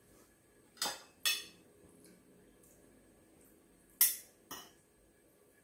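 Metal spoon and fork clinking against a plate: four sharp clinks in two pairs, about three seconds apart, the third the loudest.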